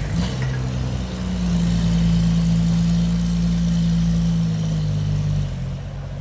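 Engine speeding up about a second in, running steadily at the higher speed, then dropping back to a lower speed near the end.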